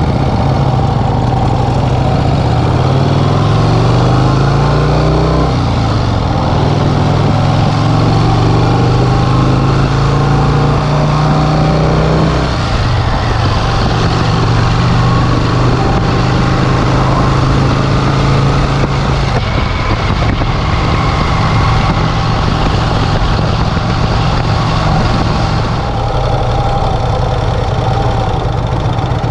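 1951 Vincent Rapide's 998 cc V-twin engine running on the road. Its note rises about two seconds in, holds steady, then drops about twelve seconds in and shifts again a few seconds later, with speed changes and gear changes.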